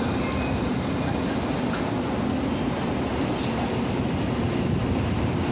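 Shinano Railway 115-series electric train pulling away from a station, heard from inside the car: a steady, fairly loud run of traction motor and wheel noise as it gathers speed.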